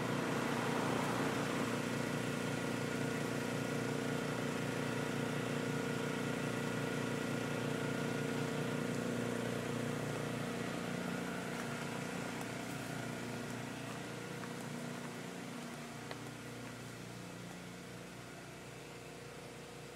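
Car engine running steadily at low revs, growing gradually fainter over the second half.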